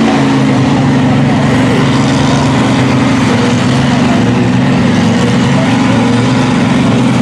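Mud truck engine running loud and steady, its note held at fairly constant revs.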